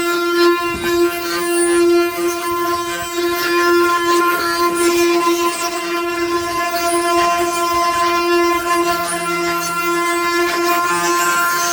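Ox cart singing: the wooden axle turning against its wooden bearings gives a steady, unbroken drone on one held note with many overtones.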